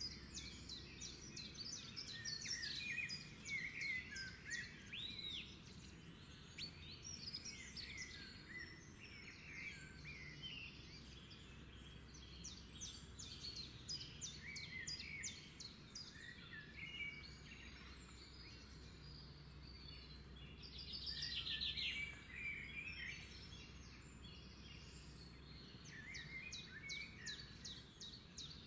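Small birds chirping and twittering faintly, several calls overlapping, with a louder rapid trill about two-thirds of the way through, over a faint steady background noise.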